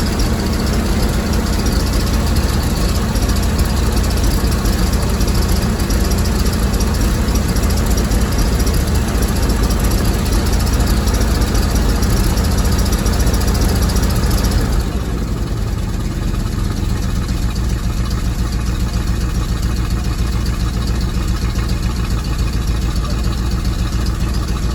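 1971 Dodge 200 pickup's engine running at a steady fast idle just after a cold start. About fifteen seconds in, the engine note drops and gets quieter.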